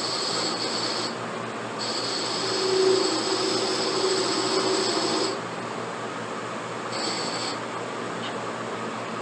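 Abrasive rasping as the pipe is filed or sanded to shape, in three spells over a steady machine hum: a short one at the start, a longer, louder one in the middle, and a brief one near the end.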